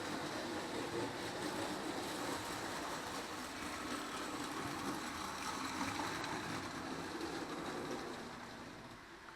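Several model trains of different gauges running together on their track loops: a steady running noise of wheels and motors, which drops in level about eight seconds in.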